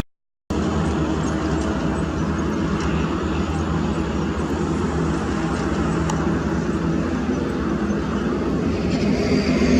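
Loaded Mitsubishi Fuso truck's diesel engine running steadily at cruising speed, with tyre and wind noise. The sound is cut for about half a second at the very start.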